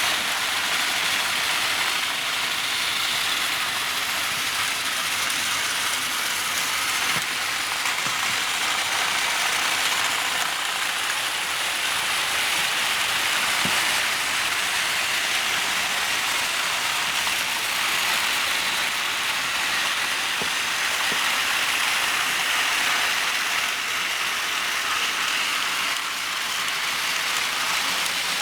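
Several small toy trains running together on their track, giving a steady whirring, clicking clatter of little motors and wheels with no pause.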